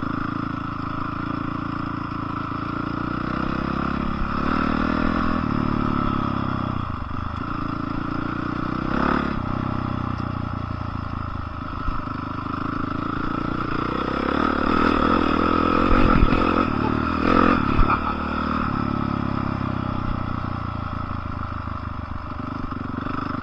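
Dirt bike engine running under way, its revs rising and falling, with a few knocks and clatters from the bike over rough ground about a third of the way in and again later.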